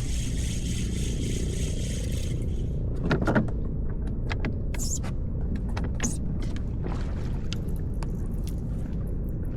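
Steady rumble of wind on the microphone, with a series of sharp clicks and rattles starting about three seconds in, the loudest cluster right at the start.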